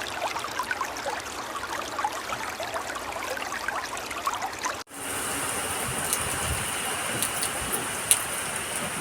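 Flowing stream water babbling and splashing. About halfway through, a cut switches to a steadier rush of water with a constant high hiss and a few sharp clicks.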